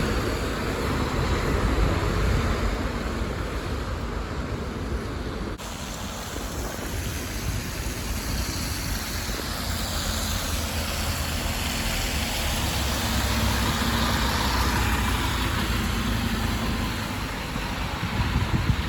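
City bus engines running at a bus terminal with road traffic noise: a steady low diesel rumble, with an abrupt change about five and a half seconds in and a swell of tyre and engine noise in the middle.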